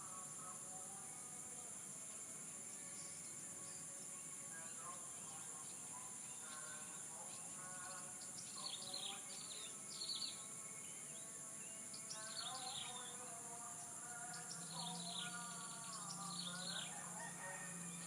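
Outdoor dawn chorus: small birds giving quick falling chirps again and again from about eight seconds in, roosters crowing, and a steady high buzz of insects throughout. A low steady hum comes in near the end.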